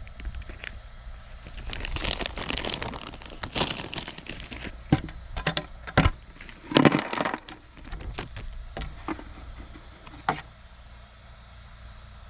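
Hands working plastic water-line parts: irregular clicks, knocks and rustling as pieces are handled and fitted, with two louder knocks about five and seven seconds in.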